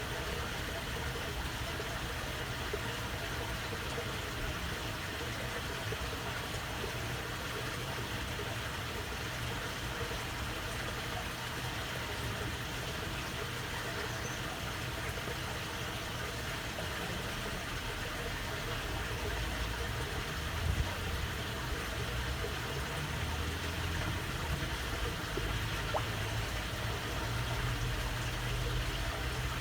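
Water babbling steadily along a narrow waterway. A low rumble underneath grows stronger in the second half.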